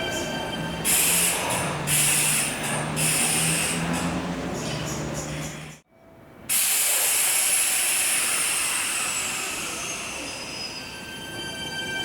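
Kintetsu electric train running through the station, with steady rail and running noise and some hiss. The sound cuts out suddenly for about half a second around the middle, then the train noise resumes.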